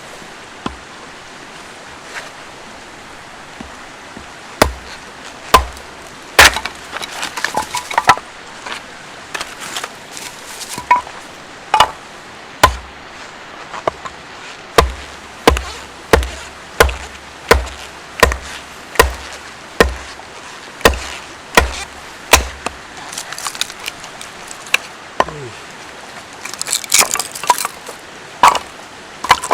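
Firewood being split or chopped: a series of sharp wooden strikes with a dull thud, irregular at first, then a steady run of about three strikes every two seconds, with a burst of lighter wooden clatter near the end.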